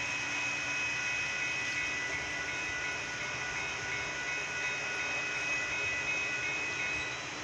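Metra commuter train running past a grade crossing, a steady rushing rail noise. Over it ring the crossing's warning bells, high steady tones that stop near the end as the gates rise after the train has cleared.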